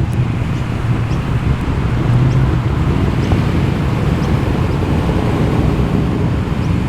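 Car engine running steadily at low revs, a loud, even low-pitched sound with no revving.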